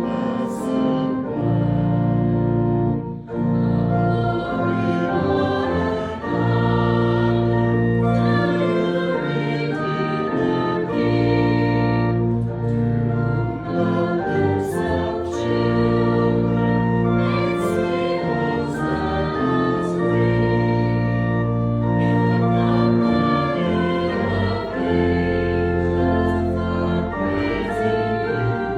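A hymn sung by many voices with organ accompaniment, held chords moving steadily from one to the next.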